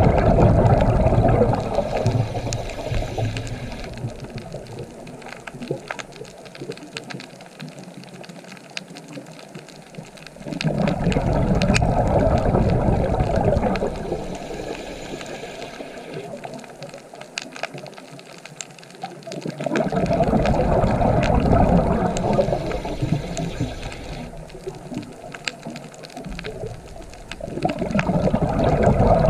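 Underwater recording of a scuba diver breathing: a rush of exhaled bubbles comes in surges about every nine seconds, with quieter stretches between them dotted with faint sharp crackling clicks.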